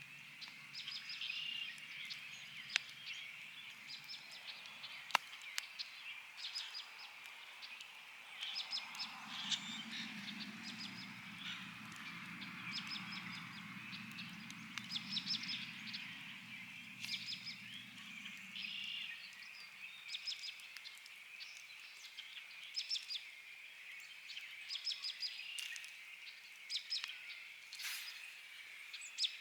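Songbirds chirping steadily over a campfire crackling, with a few sharp pops from the fire. A low distant rumble swells up about a third of the way in and fades out about two-thirds of the way through.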